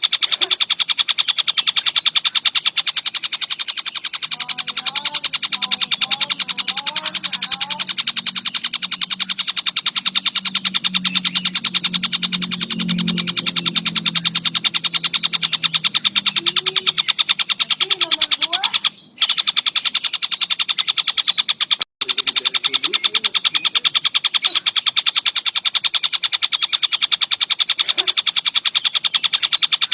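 Javan kingfisher (tengkek buto) giving its loud, high-pitched rattling call as one unbroken fast trill, cutting out briefly twice past the middle. A low rumble sits underneath for several seconds early on, with a few faint chirps from other birds.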